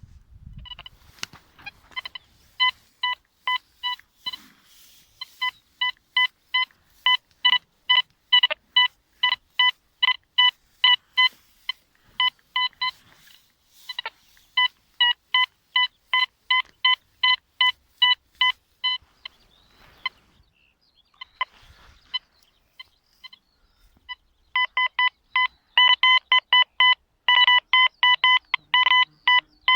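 Deteknix Quest Q40 metal detector with a Nel Tornado coil beeping over a target: a long run of short, even beeps at one steady pitch, about two to three a second. The beeps stop for a few seconds about two-thirds through, then resume a little faster.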